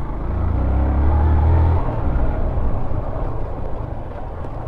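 Motorcycle engine running under load on a rough off-road trail, picking up revs shortly after the start for about a second and a half, then easing back to a steadier, lower run.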